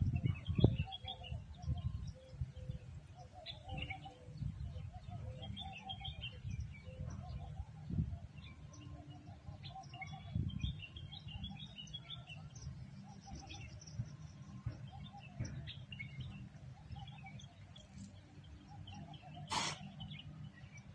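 Birds chirping and calling, many short repeated calls over a steady low rumble, with a brief burst of noise near the end.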